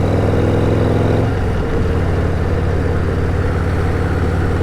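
Harley-Davidson Road Glide ST's V-twin engine pulling under way; a little over a second in, the engine note breaks and drops as it shifts up a gear, then runs on steadily.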